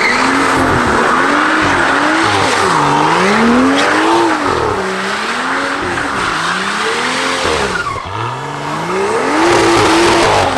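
Car engine being revved hard, its pitch swinging up and down every second or two, over a continuous hiss of spinning, squealing tyres, as in donuts or a burnout. The revs drop right down about eight seconds in and then climb again.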